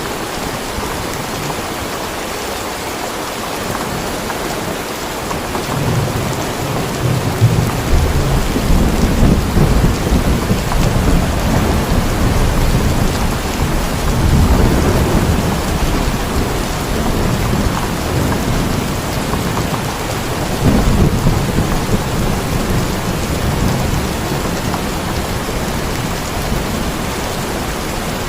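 Steady heavy rain with rolling thunder. The thunder builds about six seconds in, swells several times, and eases toward the end.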